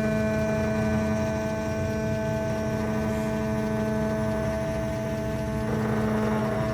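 Electric motor of a key-cutting machine, switched on just before, running with a steady hum; a rougher, hissier noise joins near the end.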